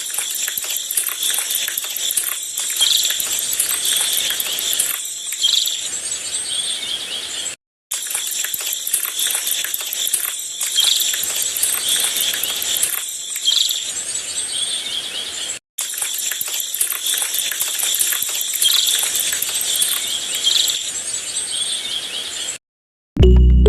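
Birds chirping over a steady high background hiss: the same few seconds of birdsong ambience repeated three times, each cut off by a brief silence. Music comes in right at the end.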